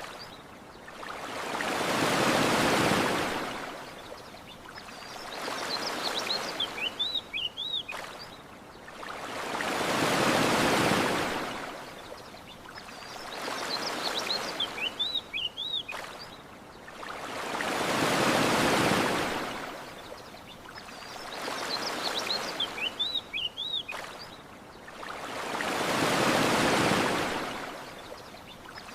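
Gentle ocean waves washing onto a shore in slow swells: a larger one about every eight seconds with a smaller one between, and short high bird chirps in the lulls. The pattern repeats exactly, a looped recording with a faint click at each seam.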